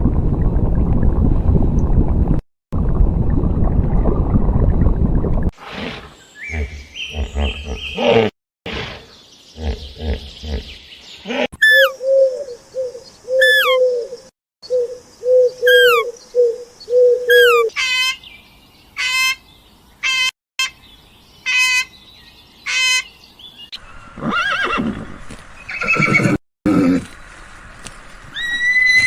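A run of different farm-animal calls, spliced together from separate recordings with abrupt cuts between them. Several stretches hold the same call repeated many times in quick succession.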